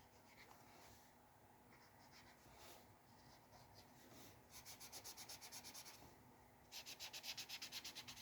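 Faint scattered strokes on paper, then two runs of quick back-and-forth rubbing on paper, about nine strokes a second, starting about four and a half seconds in and again near the end.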